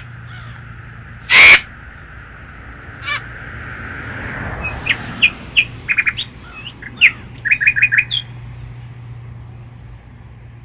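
A crow gives one loud caw about a second and a half in and a faint short call near three seconds. From about five to eight seconds there is a run of quick, high bird chirps.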